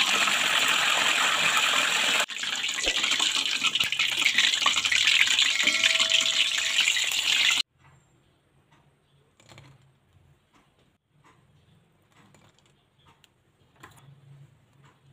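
Eggplant pieces deep-frying in hot oil in an aluminium wok: a loud, steady sizzle with a brief dip about two seconds in. It cuts off suddenly about halfway, leaving faint small knocks as shallot and garlic cloves are set into a stone mortar.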